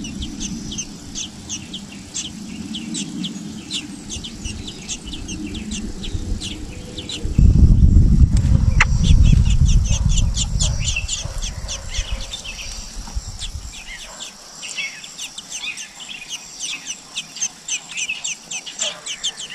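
Many small birds chirping rapidly, short high chirps tumbling over one another without a break. A low rumble underlies the first part and swells loudest in the middle before fading out.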